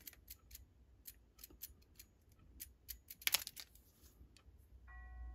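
Faint, scattered small clicks and taps of tools and fingers handling a brass clock movement while a reference mark is put on its plate, with a louder cluster about three seconds in. Near the end a faint steady ringing of several pitches sets in.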